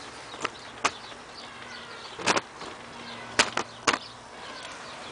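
Short, sharp clicks from the LG F1222TD washing machine's control panel as the program dial is turned and option buttons are pressed: about six clicks, three of them close together a little past halfway.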